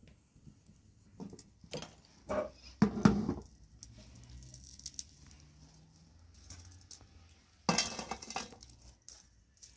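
Dishes and cookware clinking and knocking as they are handled: a few separate knocks, the loudest about three seconds in, and a longer clatter near eight seconds.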